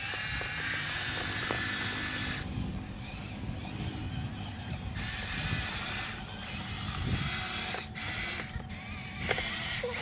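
Huina 1573 radio-controlled toy dump truck's small electric motors whirring in spurts, a whine that starts and stops three times over a steady low rumble.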